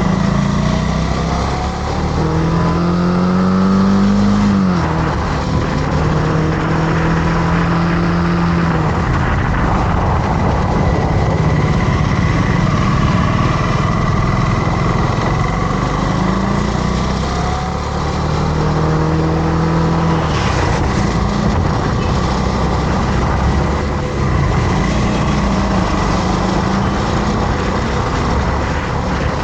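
Motorcycle engine running while riding, its pitch rising and falling several times with the throttle, over a steady rush of wind noise.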